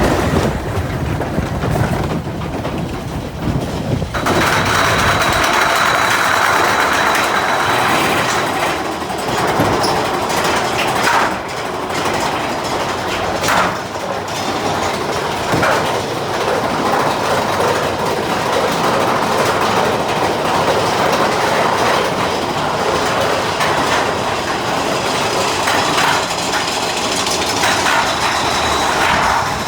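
Mine-train roller coaster cars running along the track: a continuous rattle and clatter of wheels on rail with scattered sharp knocks, growing brighter and harsher about four seconds in.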